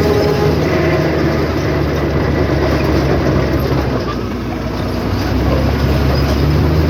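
Heavy diesel engine of earthmoving machinery running hard, its low engine note steady over a wide rumble. It eases briefly a little past the middle, then picks up again.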